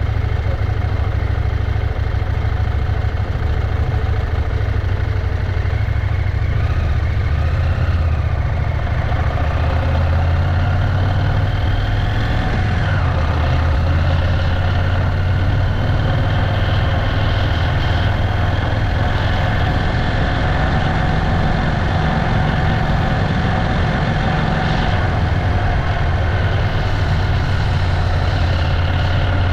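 Motorcycle engine running steadily, a continuous low rumble with slight shifts in pitch.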